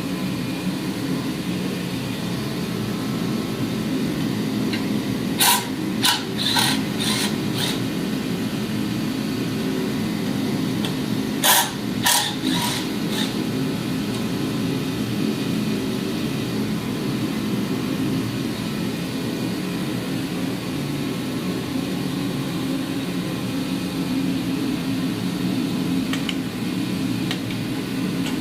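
A steady low whirring hum, with two short runs of sharp clicks and taps about five and eleven seconds in.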